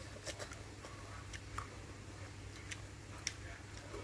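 A child chewing crispy batter-fried chicken breast: a few faint, scattered crunches and clicks over a steady low hum.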